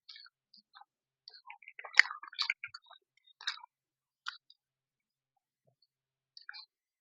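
Close-miked eating: irregular wet clicks of chewing a mouthful of fish curry, busiest in the first few seconds and loudest about two seconds in.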